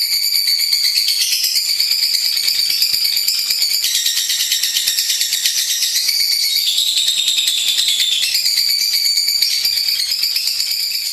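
Lovebird song: a long, rapid, high-pitched chattering trill that runs without a break and shifts in pitch every second or two.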